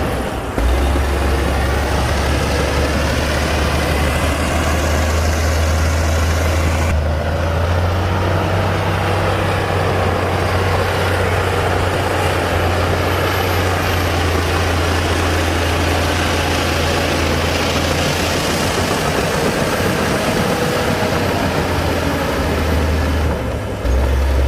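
Heavy diesel engine of a Komatsu D60-P bulldozer running steadily with a deep low hum. Its note shifts slightly about half a second in, around seven seconds in, and again just before the end.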